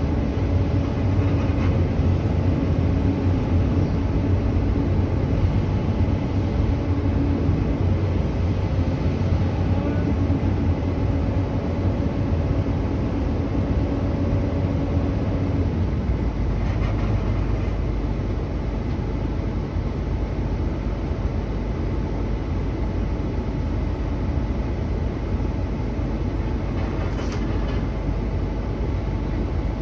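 Truck's diesel engine running steadily. Its higher, even tone drops out about halfway through, leaving a lower rumble.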